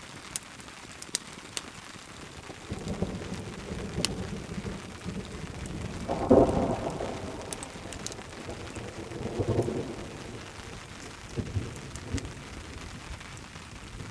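Thunderstorm: steady rain with several rolls of thunder, the loudest about six seconds in and others near four, nine and a half and twelve seconds. A few sharp taps of drops stand out in the first few seconds.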